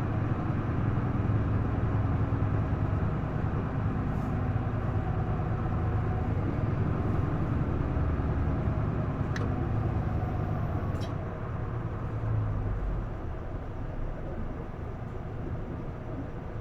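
Isuzu Erga PDG-LV234L2 city bus's diesel engine heard from inside the cabin, running with a steady low drone that eases off about three quarters of the way through.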